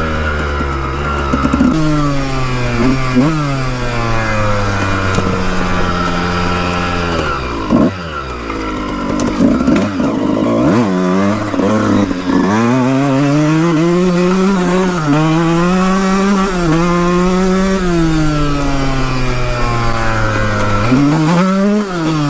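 Dirt bike engine under way, its pitch climbing and falling as the rider accelerates, shifts gears and eases off, with a brief drop and rough patch about a third of the way in and a quick rev near the end.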